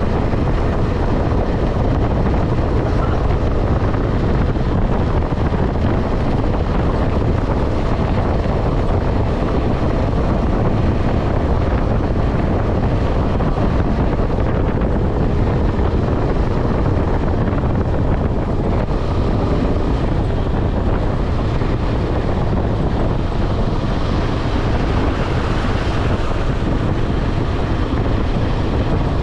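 KTM 250 Adventure's single-cylinder engine running at steady highway speed, mixed with heavy wind noise on the microphone. Loud and even throughout.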